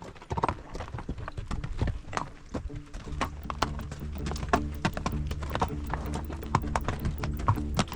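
Horses' hooves clip-clopping at a walk on a rocky trail, in an uneven string of knocks.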